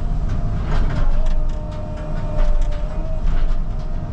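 Caterpillar 306 mini excavator working: its diesel engine runs with a steady hydraulic whine, with scattered knocks from the steel frame being handled.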